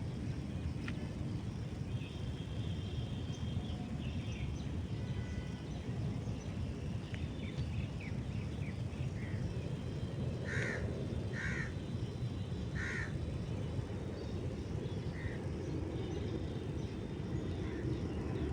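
A crow cawing three times, about a second apart, over scattered small-bird chirping and a steady low rumble.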